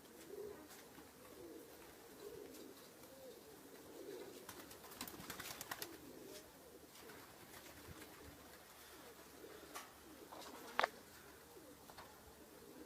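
Domestic pigeons cooing, low wavering coos repeating throughout. A few sharp clicks come about five to six seconds in, and a single louder sharp click near eleven seconds in.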